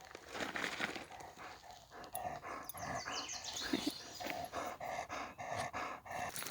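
Dog panting in quick, regular breaths, about three a second.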